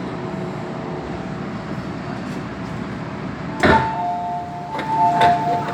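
Inside an MTR M-Train metro car, a steady background hum, then a sharp clunk a little over halfway through, followed by an electronic beep alternating between two pitches, with two more clicks near the end.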